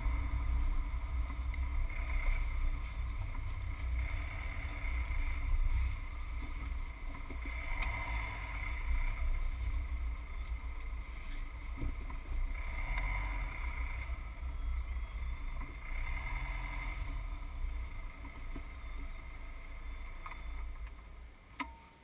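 Subaru Forester's flat-four engine running at low speed as the car creeps along and parks, a steady low rumble that fades and stops near the end.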